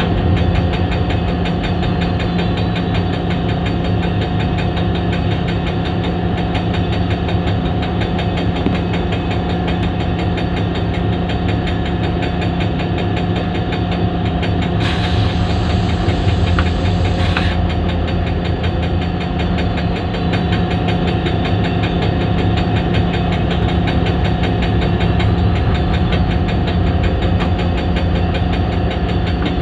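HGMU-30 diesel-electric locomotive engine running at a steady idle after start-up, with a dense, even mechanical clatter and a steady hum. About halfway through, a hissing burst lasts about two seconds.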